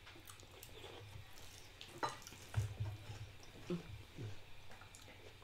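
Faint wet chewing and mouth noises of watermelon being eaten, with a few light clicks and a couple of short vocal sounds.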